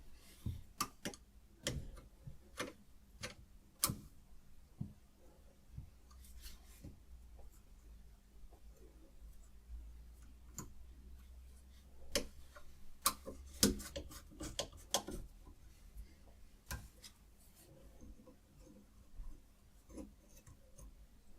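Light, irregular clicks and taps of hard parts being handled on a guided knife-sharpening system, bunched together about twelve to fifteen seconds in.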